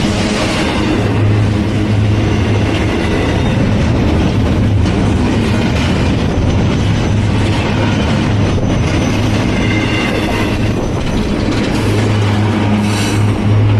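A train's cars rolling past close by: a steady loud rumble of wheels on rail with a low hum underneath. Faint high wheel squeals come and go.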